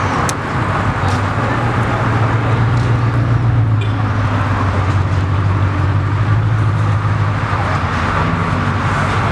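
A car engine running at idle, a steady low drone that swells from about a second in and eases near the end.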